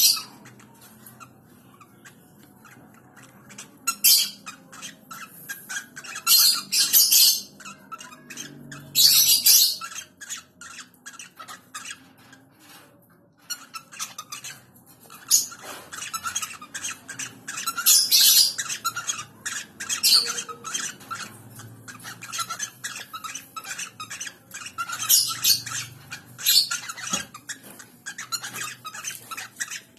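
Birds squawking: loud, harsh squawks every few seconds, with many quick, short chirps or clicks between them.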